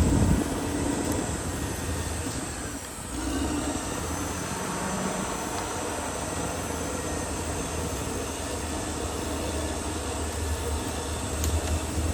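Caterpillar D6R XL bulldozer working: its diesel engine running with the clatter of the steel tracks, briefly quieter about three seconds in.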